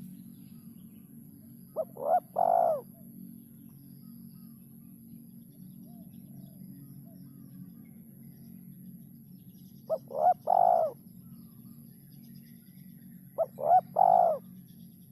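Derkuku (spotted dove) cooing three times, each call two or three short clipped notes running into one longer coo.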